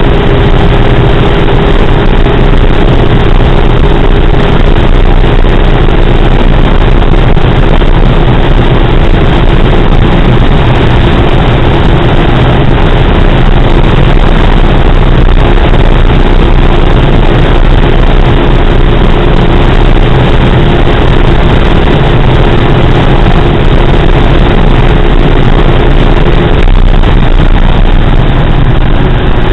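Skoda Octavia 2.0 TDI's 140 hp four-cylinder turbodiesel pulling steadily at high speed, its even drone mixed with heavy wind and tyre noise. The drone holds one pitch throughout, and its upper tone fades out about three seconds before the end.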